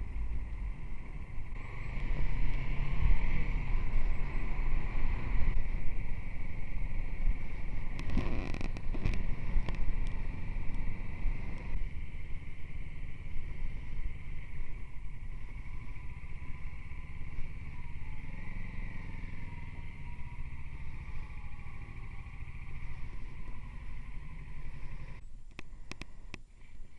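Motorcycle riding along the road, the engine and road noise under wind buffeting the microphone.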